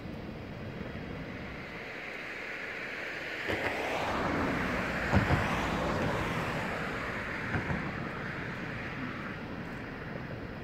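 A train passing by: a rushing noise that swells to a peak about halfway through and then fades, with three pairs of sharp clicks as it goes past.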